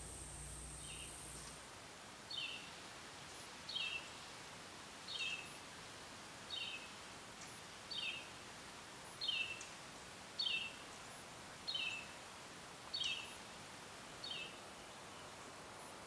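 A bird calling repeatedly, a short call that drops slightly in pitch, given about once every second and a quarter, eleven times. A steady low hum with a high hiss stops about a second and a half in.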